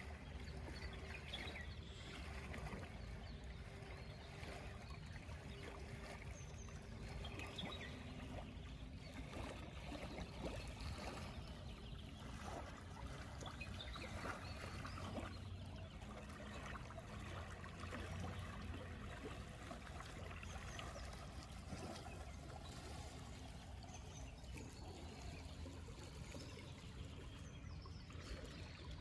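Water trickling and flowing steadily in a small canal, with a few faint high bird calls.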